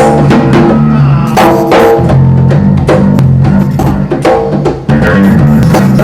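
Electric bass and percussion playing an instrumental passage: held bass notes under a steady run of drum hits.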